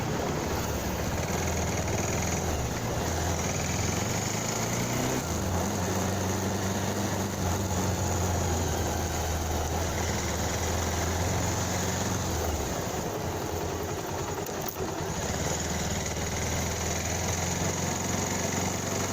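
Motorcycle engine running under way, with a steady rush of wind and road noise. The engine note steps up about five seconds in, fades for a couple of seconds past the middle, then comes back.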